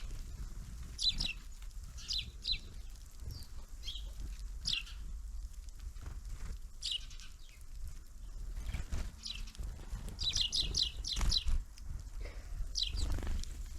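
Small songbirds calling at a winter feeder: short, high, downward-sweeping chirps, single or in pairs, with a quick run of four or five about ten seconds in.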